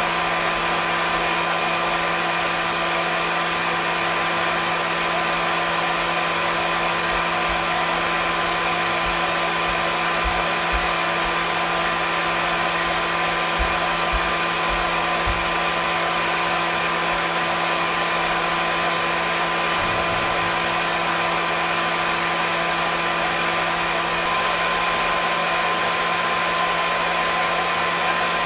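Hair dryer running steadily: a constant rush of air with a low motor hum and a higher steady whine, unchanging throughout.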